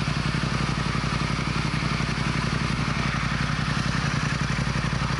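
Motorcycle engine running at a steady speed, its pitch holding level, with a steady rushing noise over it.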